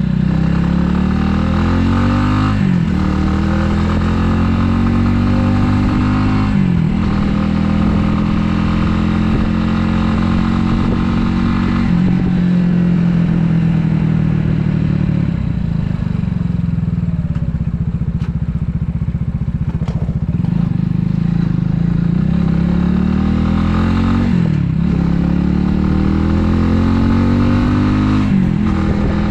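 Italika 250Z's single-cylinder four-stroke engine pulling through the gears on the move. The engine note climbs, then drops sharply at each shift, about five times: roughly 2, 6 and 12 seconds in and twice near the end. In the middle it eases to a lower, steadier note.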